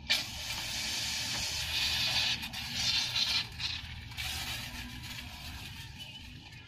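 Hose spraying soapy water over a car engine, a hissing spray that starts suddenly, is strongest for about four seconds, then goes on more weakly.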